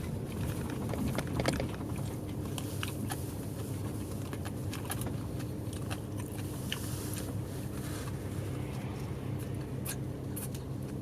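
A bus's diesel engine running steadily, heard from inside the passenger cabin as an even low hum, with scattered small clicks and rattles from the interior fittings.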